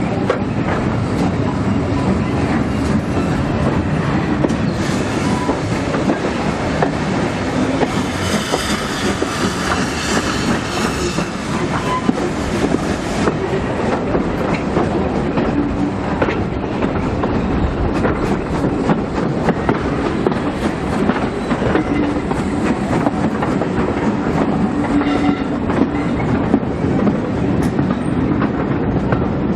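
Steam-hauled passenger train carriage running along the track: a steady rumble with the wheels clicking over the rail joints, and a stretch of higher-pitched hiss about eight seconds in that lasts a few seconds.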